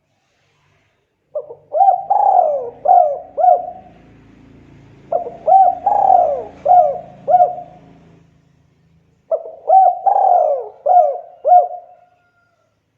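Spotted dove (tekukur) cooing: three phrases of about five notes each, a couple of seconds apart.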